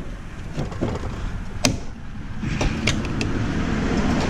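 Scattered sharp clicks and knocks of tools and metal parts being handled while electronic equipment is taken apart, with a low rumbling scrape coming in about halfway through.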